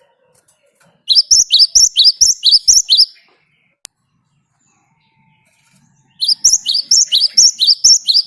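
Cinereous tit (gelatik batu) singing its ringing two-note 'wucit-wucit' song: a quick series of about four high two-note phrases a second for two seconds, a pause, then a second series starting about six seconds in.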